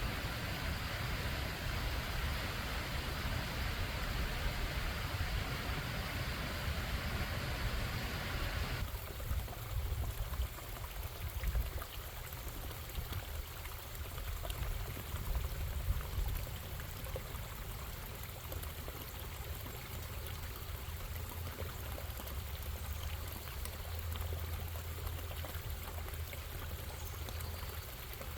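Stream water running and bubbling over rocks, a steady rushing hiss over a low rumble. About nine seconds in the sound abruptly turns thinner and quieter, leaving a softer flow with fine trickling and dripping ticks.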